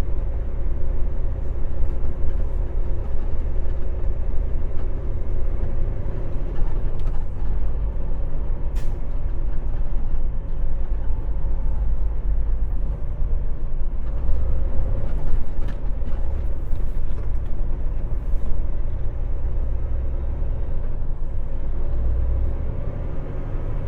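Semi-truck's diesel engine running with a steady low rumble, with a few short clicks over it.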